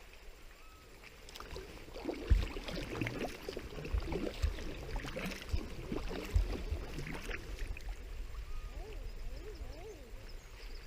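Water splashing and gurgling against a sea kayak, with several low thumps, busiest from about two seconds in until about seven. Low rising-and-falling bird calls come in the background near the start and toward the end.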